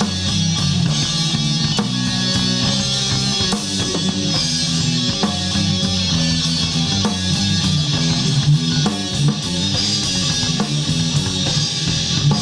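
Live rock band playing: distorted electric guitars and drum kit.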